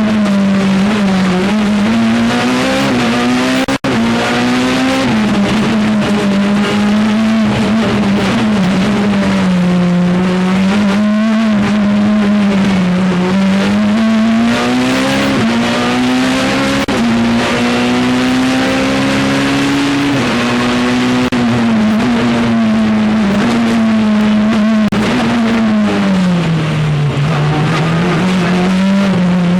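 Peugeot 207 Super 2000 rally car's engine, heard from onboard, running hard at high revs. The pitch rises and falls continuously through gear changes and throttle, with a momentary break in the sound about four seconds in.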